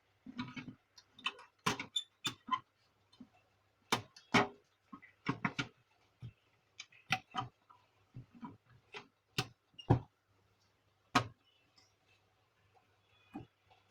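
Irregular sharp clicks and knocks of Canon imageCLASS MF4750 printer parts being handled and fitted back together during reassembly.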